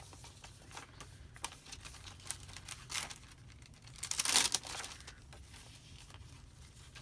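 Paper rustling and light taps as the pages and tucked-in cards of a handmade junk journal are handled and turned, with one louder rustle about four seconds in.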